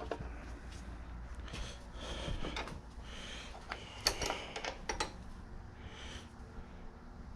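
Scattered light metal clicks and clinks from an older Craftsman bench vise and tools being handled after a thread repair on its carrier, with the sharpest clicks about four and five seconds in.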